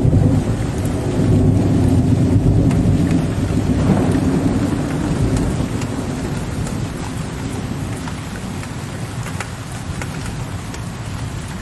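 Steady rain with scattered drops ticking, under a low rolling thunder rumble that is loudest at first and slowly dies away over the following seconds.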